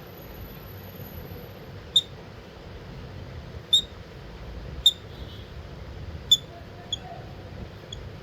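Lovebird giving short, sharp, high-pitched chirps at irregular intervals, six in all, the last two fainter.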